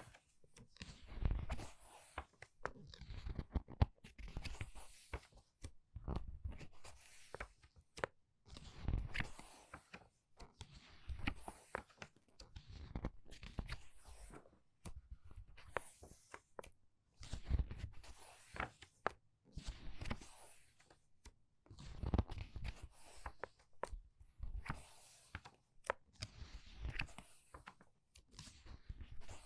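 Pages of a paper book being turned quickly, one after another: a short papery rustle and swish with each turn, about one every second or two.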